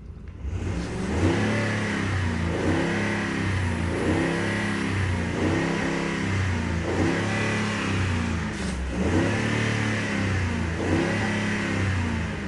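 2010 Ford F-150 Platinum's 5.4-litre V8 running and revved in a series of short blips, about one every one and a half to two seconds, the pitch climbing and falling back each time. It runs smooth with quiet exhaust manifolds, without the manifold tick these trucks are known for.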